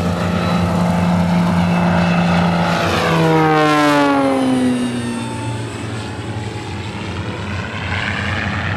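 Propeller aircraft flying past in a display. Its engine and propeller note grows loudest about three to four seconds in, then drops in pitch as it passes and moves away.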